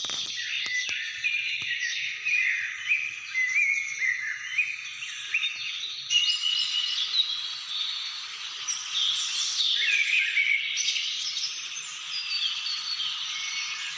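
Dense chorus of many birds calling and singing at once: overlapping chirps and short whistled phrases, with a few sharp clicks in the first couple of seconds.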